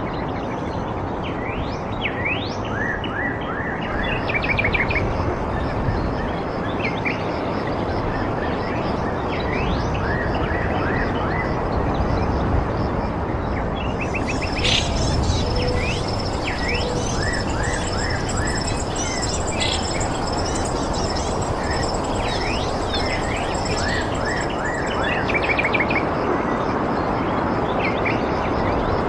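Birds chirping in repeated short, falling notes over a steady rushing background noise. From about halfway through, a high, thin, continuous tone joins in.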